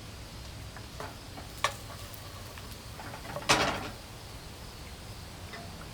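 Kitchen cookware being handled: a sharp click, then a louder short knock or clatter a couple of seconds later, over a steady low background noise.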